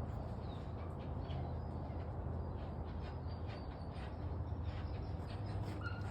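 Faint, short bird chirps scattered over a steady low hum of background noise.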